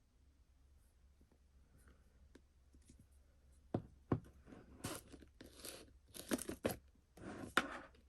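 Packaging rustling and crinkling as items are handled, with a couple of sharp clicks or knocks. It is faint for the first few seconds, then a run of rustles fills the second half.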